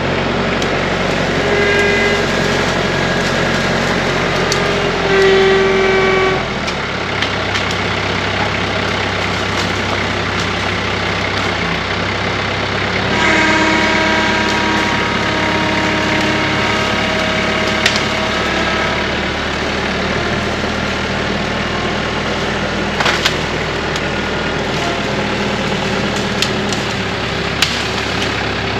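Compact diesel tractor engine running under work, its pitch rising for a few seconds around five seconds in and again from about thirteen seconds, as the root grapple gathers brush. A few sharp cracks, likely sticks snapping, about eighteen, twenty-three and twenty-seven seconds in.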